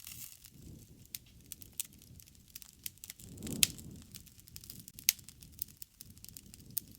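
Wood fire burning: scattered crackles and sharp pops over a low rumble that swells briefly near the middle, with the two loudest pops about three and a half and five seconds in.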